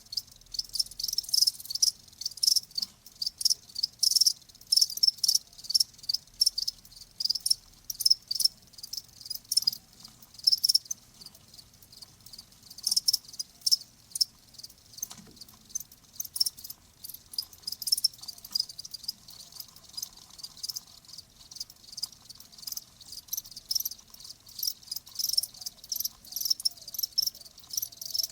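Crickets chirping: short, high chirps repeating several times a second, overlapping and uneven, over a faint low hum.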